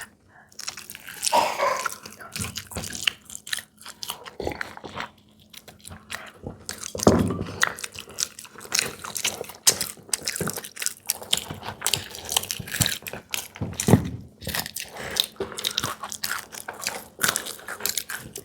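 Close-miked chewing and biting with frequent irregular crunches, of someone eating crisp fried Indian snacks such as samosa.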